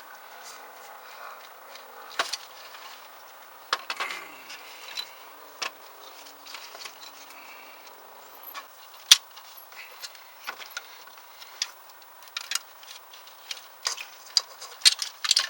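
Metal hand tools clinking and knocking against engine parts while an alternator is being removed: scattered sharp clicks and taps, the loudest about nine seconds in, with a quick run of them near the end.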